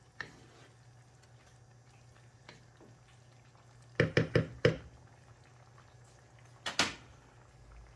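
Metal cookware clanking on a stovetop: a quick run of four sharp knocks about four seconds in and one more knock near seven seconds, over a low steady hum.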